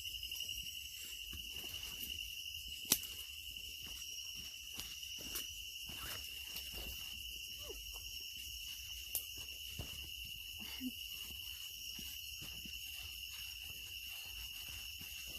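Night insect chorus in tropical rainforest: a steady, high-pitched, unbroken trill with fainter higher bands above it. A few sharp clicks cut through, the loudest about three seconds in.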